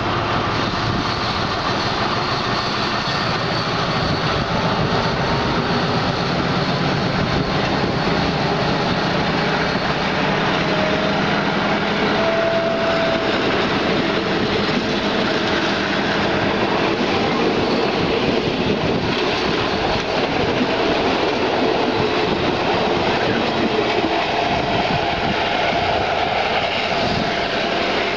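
Passenger coaches of a departing train rolling past at close range, their wheels clattering on the rails in a loud, steady noise.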